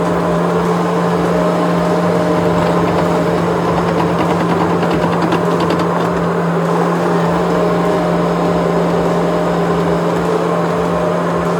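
Skid steer loader's engine running steadily under load, a constant low hum.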